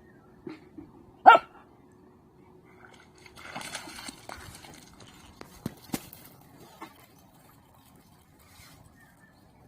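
A Maltese dog gives one short, sharp bark about a second in, followed later by faint rustling and a couple of light knocks.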